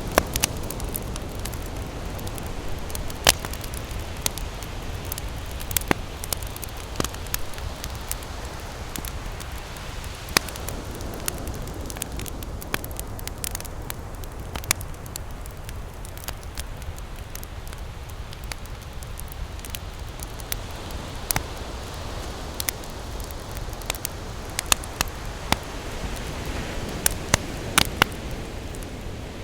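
Campfire crackling, with irregular sharp pops scattered through, over a steady low rush of ocean waves that swells near the start and near the end.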